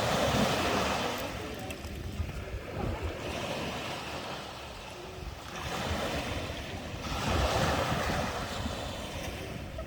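Sea waves breaking and washing up the shore in repeated swelling surges, loudest right at the start and again near the end.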